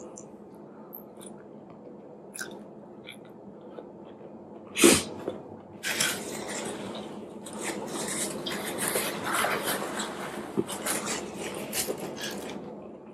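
Close-miked eating sounds as fufu and okra soup are eaten by hand: soft mouth clicks, then a sudden loud burst about five seconds in, followed by several seconds of dense, crackly chewing and handling noise that stops near the end.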